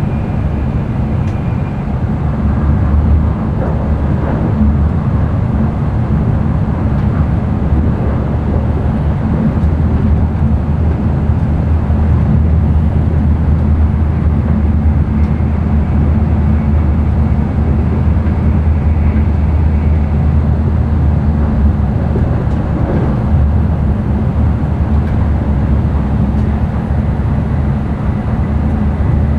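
N700-series Shinkansen train running, heard from inside the passenger cabin: a steady, loud low rumble with a rushing noise over it.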